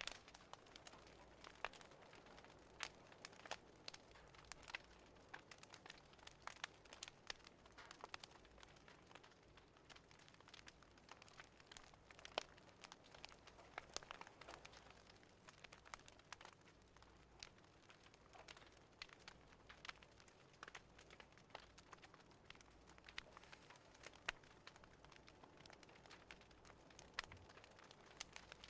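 Faint crackling of a wood fire: irregular sharp pops and snaps over a soft hiss.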